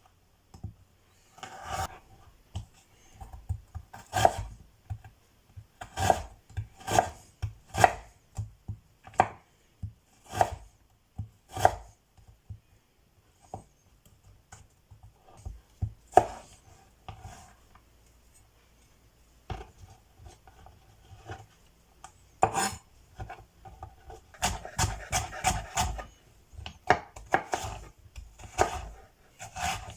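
Knife chopping vegetables on a cutting board: scattered single chops at first, a quiet pause in the middle, then quick runs of chops in the last third.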